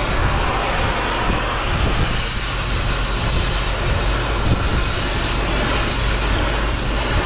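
Heavy machinery running steadily: a low hum under a harsh, even noise, with a brighter hiss from about two seconds in that eases off near six seconds.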